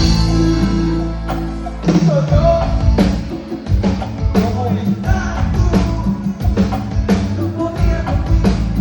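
Live band music: held low notes, then a lead singer comes in about two seconds in over a steady drum beat.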